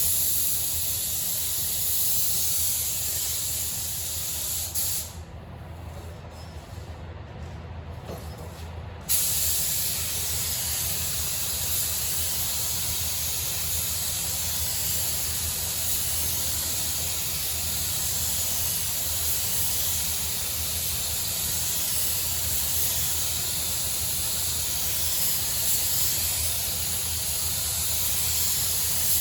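Compressed-air paint spray gun hissing as it sprays a coat of paint onto a car body panel. The spray stops about five seconds in and starts again about four seconds later.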